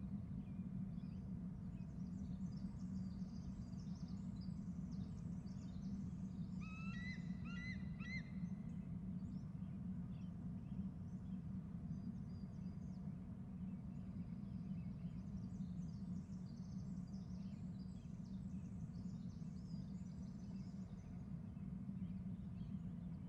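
An eagle calling: a quick run of about four high, piping chirps about seven seconds in. Faint high twittering comes and goes over a steady low hum.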